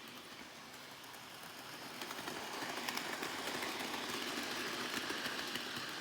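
Model Henry the Green Engine locomotive running at speed around a model railway track, its motor and wheels clicking over the rail joints, getting louder as it passes close by about halfway through, then fading away.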